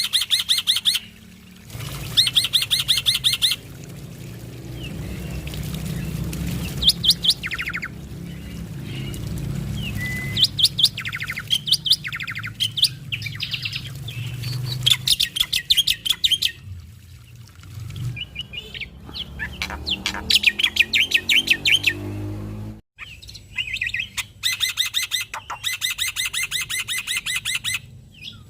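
Male black-winged starling (jalak putih) singing loudly in repeated bursts, each a second or two of rapid, fast-repeated chattering notes, over a low background rumble.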